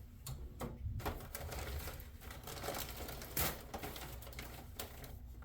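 Hands handling small items at a workbench, probably fetching a roll of tape: a run of light, irregular clicks and taps, with one louder, brief rasp about three and a half seconds in.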